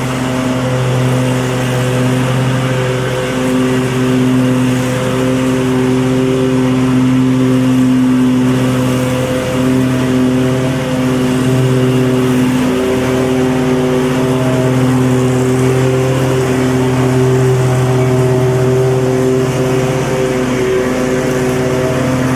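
Lawnmower engine running steadily at a constant speed, its pitch holding with only slight wavering.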